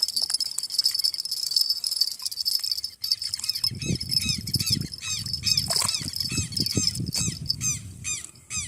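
Insects buzzing steadily at a high pitch, joined about three seconds in by a bird calling in quick repeated chirps, about three or four a second, over low rumbling noise.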